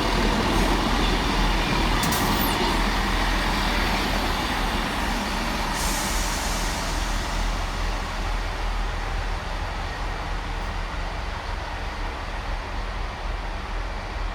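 A Class 158 diesel multiple unit running into the platform, its diesel engines making a steady low rumble that slowly fades. A short high brake squeal comes about two seconds in, and a hiss of air starts about six seconds in.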